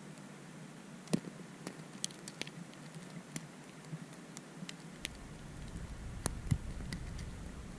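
Blizzard snow or ice grains ticking in scattered sharp ticks. From about five seconds in, wind rumbles on the microphone.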